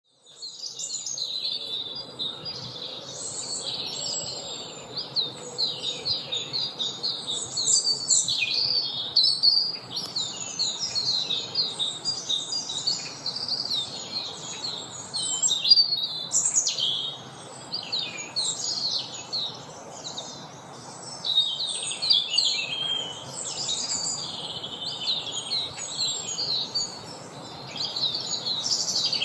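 Several songbirds singing at once in a woodland spring chorus: dense, overlapping chirps and trills that never stop, over a steady low background hiss.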